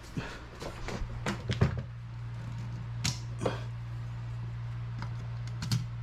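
A few scattered sharp knocks and clicks over a steady low hum.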